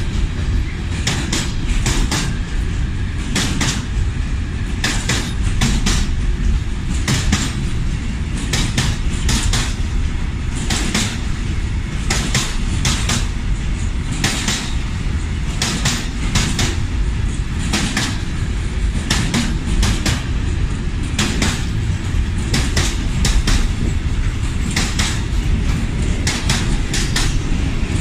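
Container flat wagons of a long intermodal freight train rolling past: a steady low rumble with frequent sharp clacks of wheels over the track joints, several a second, unevenly spaced.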